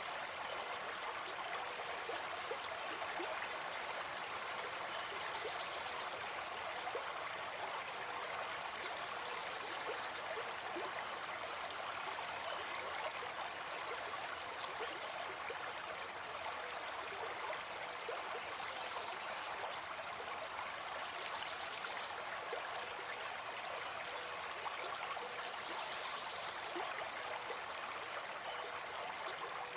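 Gentle forest stream flowing steadily.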